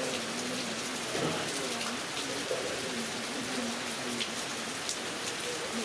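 Heavy rain falling steadily, with individual drops striking close by.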